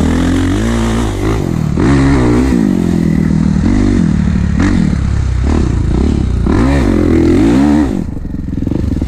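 Kawasaki KX450 dirt bike's single-cylinder four-stroke engine under riding load, its revs rising and falling again and again with throttle and gear changes. The throttle closes and the engine drops off near the end.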